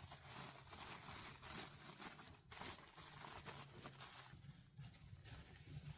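Faint crackling of a wood fire's bed of coals under a clay pot: scattered small irregular ticks and pops.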